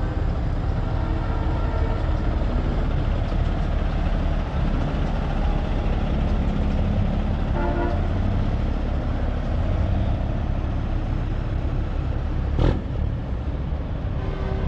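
Heavy truck's diesel engine running steadily, with a short horn toot about eight seconds in and a sharp click near the end.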